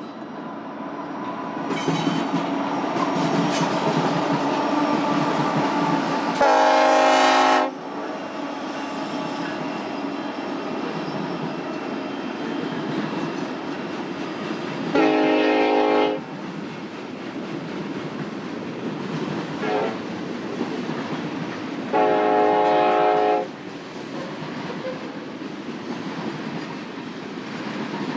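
Union Pacific freight locomotive sounding its multi-chime air horn in three blasts, each about a second long, as the eastbound manifest train approaches and passes with steady wheel-on-rail rumble and clickety-clack.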